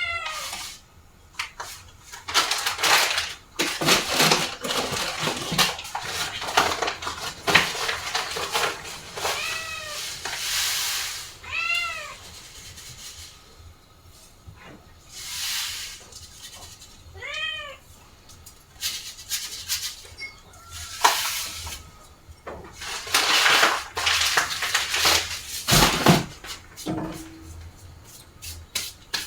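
A domestic cat meowing about four times, each call rising and then falling in pitch, with bursts of clattering and rustling handling noise between the calls.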